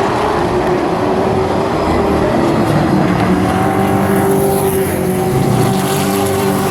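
Midwest Truck Series race trucks' engines running at speed on the track, several engines heard together as a steady, loud drone.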